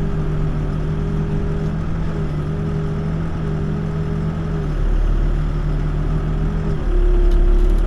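Backhoe's diesel engine running steadily, heard from the operator's seat; its note shifts and grows louder twice, about five and seven seconds in.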